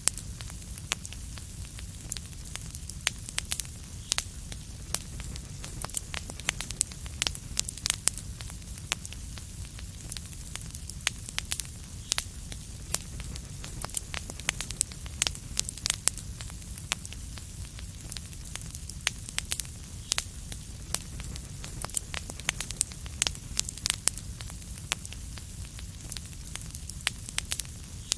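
Wood fire crackling in a fireplace: a steady low rumble and hiss with frequent sharp, irregular pops and snaps.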